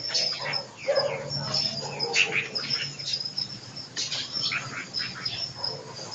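Many small birds chirping and calling at once in overlapping short sweeping notes, with a high repeated chirping running through.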